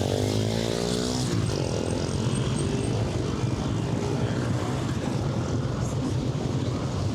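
An engine passes close by, its pitch falling as it goes, over a steady low rumble of city traffic.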